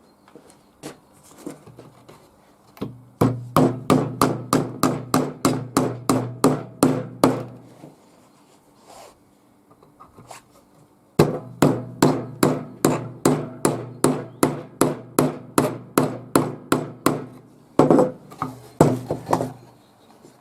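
Hammer striking a wooden nest box: two long runs of quick, even blows, about three a second, each leaving a short low ring, with a few single taps before, between and after.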